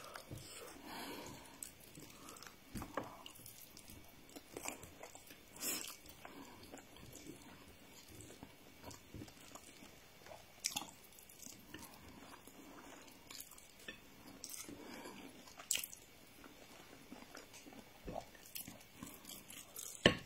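Faint chewing of a person eating rice by hand, with scattered small clicks every few seconds.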